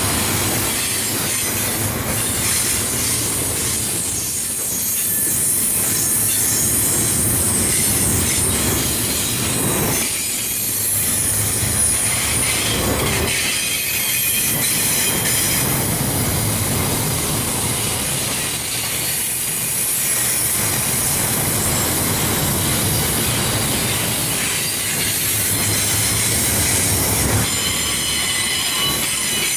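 Double-stack intermodal well cars of a freight train rolling past close by: a steady loud rumble of wheels on rail, with a high-pitched wheel squeal over it.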